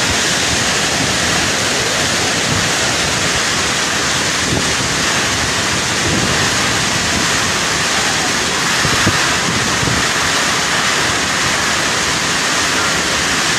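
Storm wind and driving rain making a loud, steady rushing noise, with no letup.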